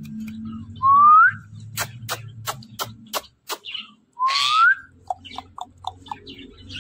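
Ringneck parrot giving two rising whistles a few seconds apart. Between them comes a quick run of sharp clicks, and a few short low chirps follow near the end.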